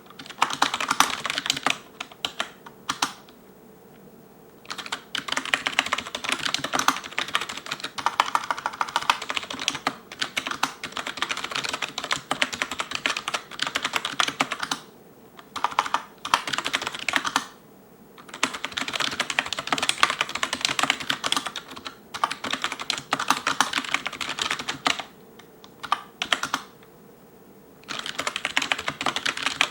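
Fast touch-typing on an Elecom TK-FDM088TBK wireless membrane keyboard: rapid runs of keystrokes with short pauses of about a second, several times over.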